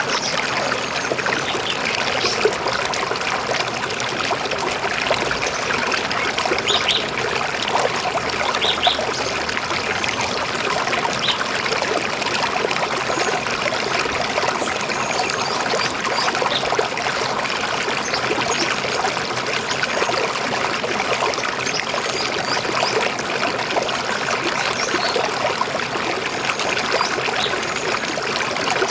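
A river or stream flowing, a steady babbling rush of water with fine trickling detail.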